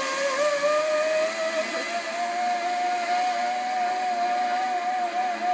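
Zipline trolley pulleys running along the steel cable, giving a steady whine that has just risen in pitch as the rider picked up speed and now holds level with a slight waver, over a rush of wind noise.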